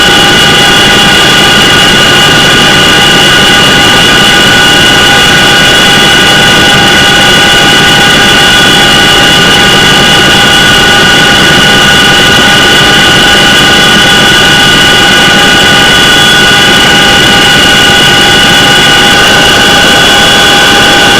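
CH-47 Chinook tandem-rotor helicopter running steadily: a loud, even noise carrying several steady high-pitched whines.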